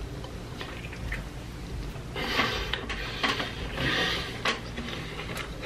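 Eating sounds from a mouthful of chili cheese hot dog being chewed: wet mouth noises and small clicks, with two louder noisy stretches about two seconds in and about four seconds in.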